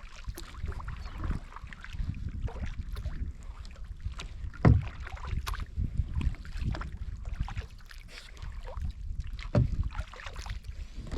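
Kayak paddling on open water: paddle strokes and water splashing and dripping, over a steady low rumble. Two louder splashes or knocks stand out, about five seconds apart.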